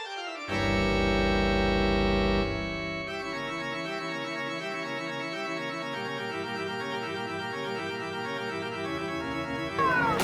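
Eerie organ music: a loud held chord with deep bass about half a second in, lasting two seconds, then a quieter sustained chord with wavering notes. A wavering sliding sound comes in near the end.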